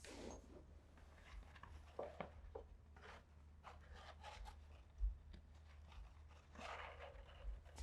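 Faint rustling and scattered small clicks and knocks, with a few dull low thumps, over a steady low hum in a quiet room.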